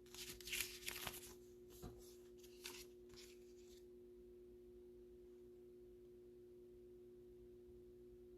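Faint rustling and crinkling of card sleeves and a plastic top loader being handled during the first few seconds, then near silence with a steady faint hum.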